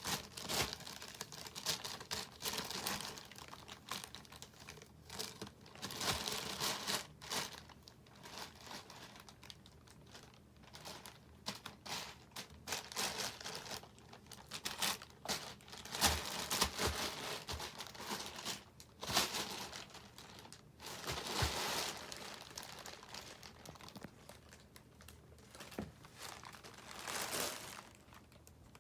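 Crinkly plastic wrapper rustling and crackling in irregular bursts as a cat bats and plays with it, with short pauses between flurries.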